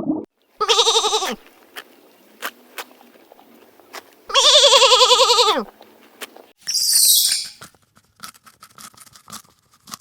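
Two long, quavering animal calls a few seconds apart, the second dropping in pitch at its end, followed by a shorter, high, rasping sound and a few light clicks.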